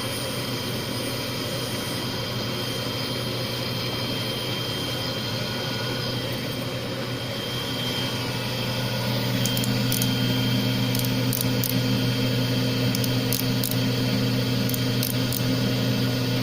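Small CNC cylindrical grinder running with a steady hum while grinding a small part down to size. About halfway through the sound grows louder and a second, higher hum joins it, with faint scattered ticks near the end.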